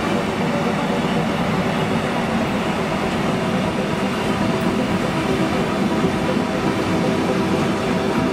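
Container freight train of intermodal flat wagons rolling past: a steady noise of wheels on rail, with a few faint steady tones running through it.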